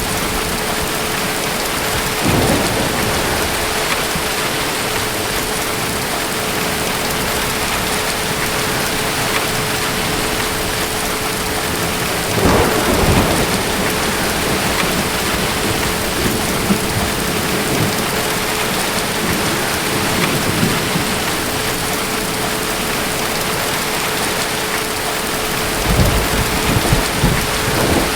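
Steady heavy rain with thunder rumbling three times: briefly about two seconds in, loudest near the middle, and again with a few cracks near the end.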